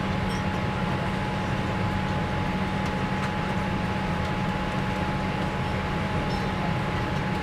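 Steady cabin noise inside a Boeing 787 airliner: an even low rumble with a constant mid-pitched hum running through it.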